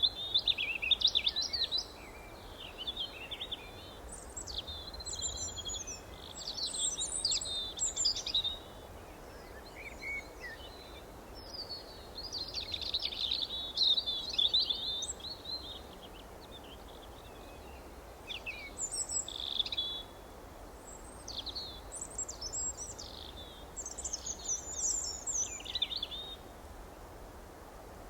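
Several songbirds chirping and trilling in rapid, overlapping phrases, in bursts of a few seconds with short pauses, over a steady low background hiss.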